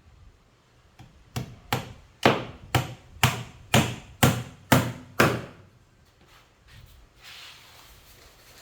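Hammer driving a nail into wood: about nine sharp strikes, roughly two a second, stopping about five seconds in.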